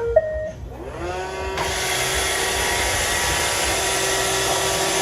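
Roomba robot vacuum finishing a short electronic beep tune. Its motors then spin up with a rising whine, and from about a second and a half in the vacuum runs with a steady hum.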